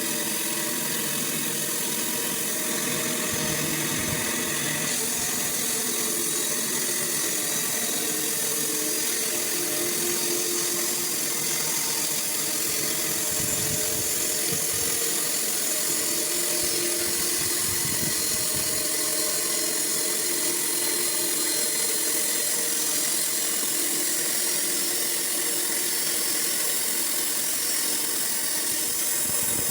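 Sawmill running steadily: a machine drone with a high, even whine.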